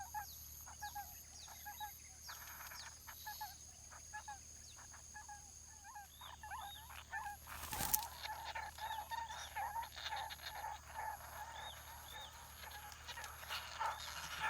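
Birds chirping: short calls repeated many times, growing busier and denser about halfway through. A single sharp click sounds about eight seconds in, and a faint high pulsing sound runs underneath.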